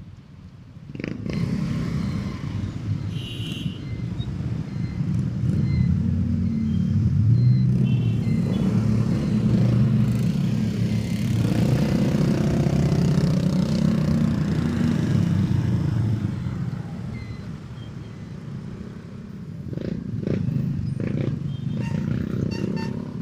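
Motorcycle engine running while the bike is ridden on the road, its note climbing as it speeds up, easing off for a couple of seconds past the middle and picking up again near the end, with wind and road noise.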